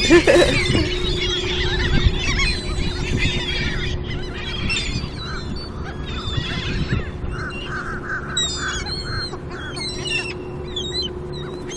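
A flock of seagulls calling over one another: many short squawks and cries, with a run of quick repeated calls about halfway through, over a steady low hum.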